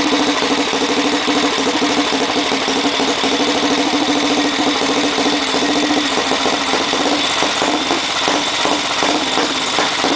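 1967 Matchless G80CS single-cylinder four-stroke engine running, then stumbling and misfiring with irregular pops in the second half as the throttle is opened: the ignition is cutting out from an intermittently failing magneto.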